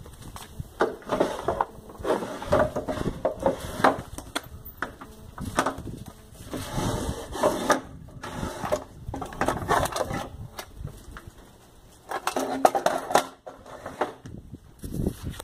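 Sewing machine run in short bursts, starting and stopping several times, each burst a rapid run of needle strokes.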